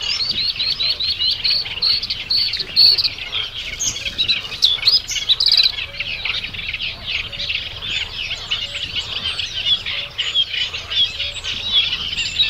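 Many small birds chirping and twittering at once, a dense chorus of quick high chirps, with a run of evenly repeated chirps in the first few seconds.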